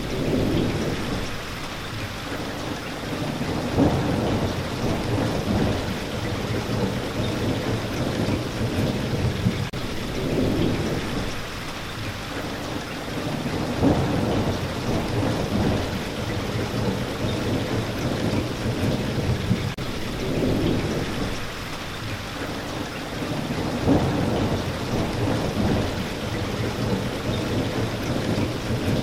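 Steady rain hissing, with low rumbles of thunder swelling and fading every few seconds.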